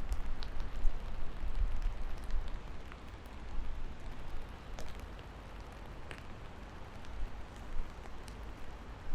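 Steady rain falling, an even hiss with scattered individual drops ticking. A low rumble sits under it during the first few seconds, then fades.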